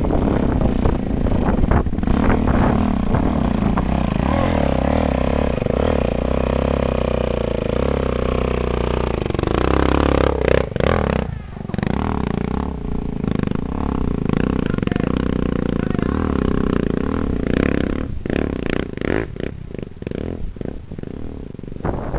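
Dirt bike engine running with its pitch rising and falling as the throttle opens and closes. It holds a steadier note for several seconds past the middle, then turns choppy with short on-off blips near the end.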